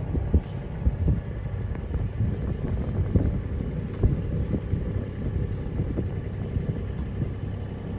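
Wind buffeting the microphone on a sailboat under way: a steady low rumble with irregular gusty flutter.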